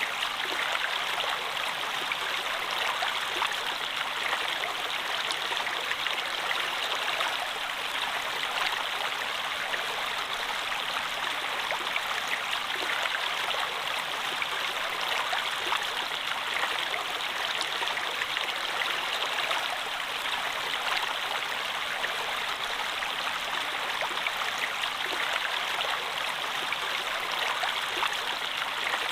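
Running water flowing and splashing steadily, with many small fine splashes and trickles through it.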